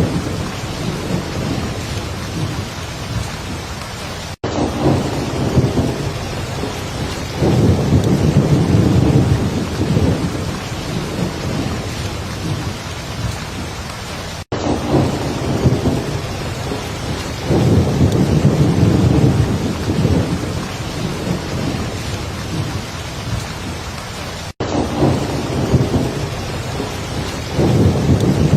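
Heavy rain falling steadily, with low rumbles of thunder swelling up about every ten seconds. The track is a short loop that cuts out for an instant three times, about ten seconds apart.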